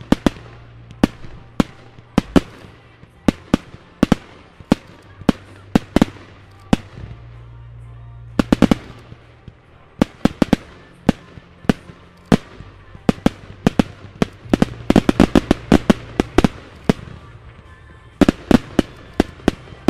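Aerial fireworks firing in a show: a rapid, irregular string of sharp bangs as shots launch and burst. The bangs come in dense clusters about halfway through and again near the end, over a faint low steady hum.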